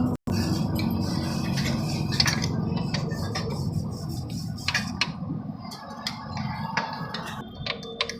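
Metal tools clinking now and then against the tappet adjusters of a Royal Enfield Classic 350 engine while the tappet clearance is being set, over a steady low rumble.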